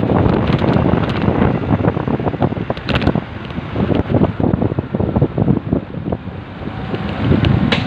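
Wind buffeting the microphone of a rider on a moving motorcycle, a loud, rough, wavering rush with engine and road noise underneath.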